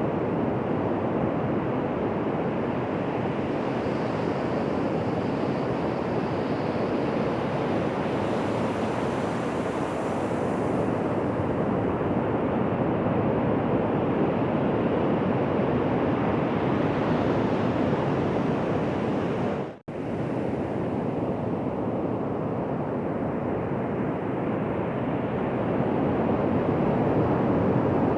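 Ocean surf washing onto a beach: a steady, even rush of waves. The sound drops out for an instant about two-thirds of the way through.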